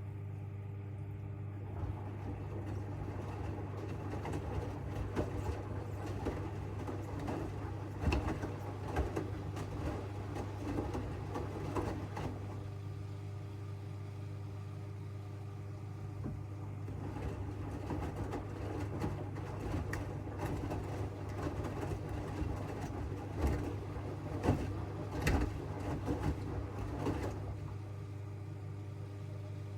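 AEG front-loading washing machine tumbling a load of bath mats: the drum turns for about ten seconds with water sloshing and the wet mats dropping, pauses for a few seconds, then turns again for about ten seconds and stops near the end, over a steady low hum.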